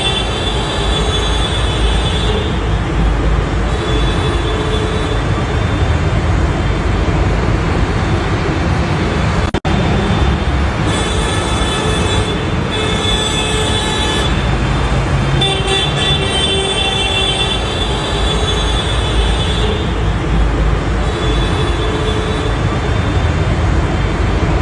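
Tractor engine running steadily, with a higher-pitched tone that comes and goes every few seconds. The sound drops out for a split second about ten seconds in.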